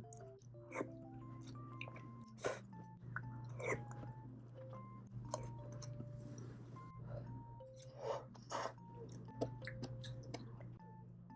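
A person chewing and biting food close to the microphone, with several short sharp clicks and crunches, over light background music of short plucked notes.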